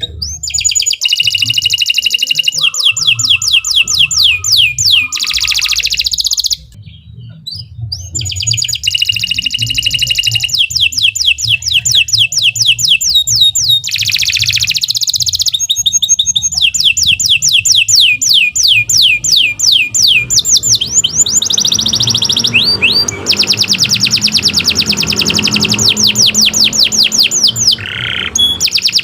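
Domestic canary singing a long, loud song made of fast trills, each a rapid run of repeated sweeping notes, with short breaks about six seconds in and again around fourteen seconds.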